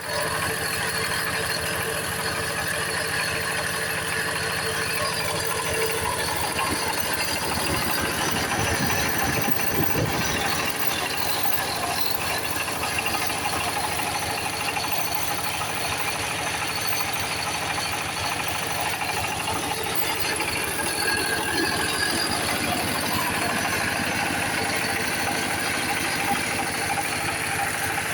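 A 10-horsepower engine running steadily at a constant speed.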